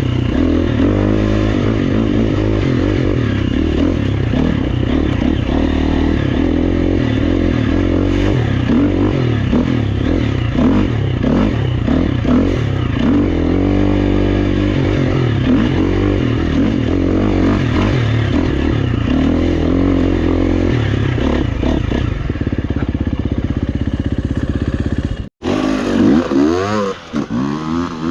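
Dirt bike engine running under load on a trail ride, its pitch rising and falling with the throttle. About 25 seconds in the sound cuts off abruptly for an instant, then comes back with quick revs up and down.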